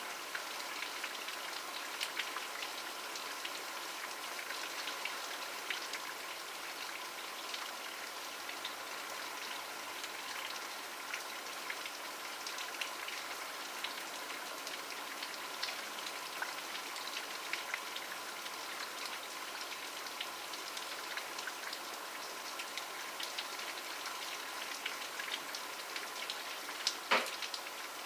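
Steady rain, with many individual drops landing with sharp ticks on a surface. One louder drop lands near the end.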